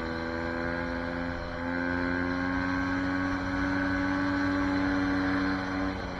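SSR 150 dirt bike's engine running at a steady throttle, its pitch creeping slowly upward. It gets louder about a second and a half in and drops off just before the end.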